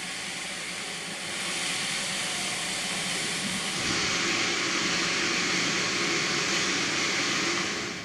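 Rushing water, a steady hiss that grows louder in two steps, about a second in and again near the middle, and cuts off abruptly at the end.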